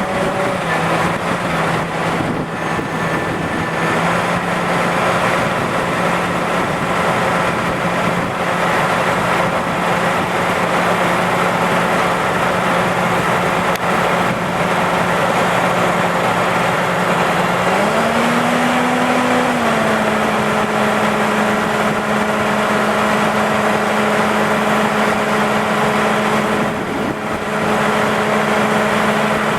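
Six-cylinder diesel engine of a 1995 International 4700 truck idling steadily. About 18 seconds in the idle rises briefly, then settles at a slightly higher steady speed.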